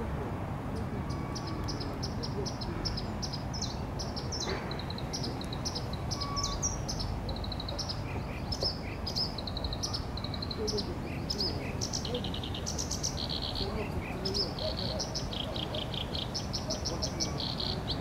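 Small birds chirping in quick runs of short high notes, again and again, over a steady low background rumble.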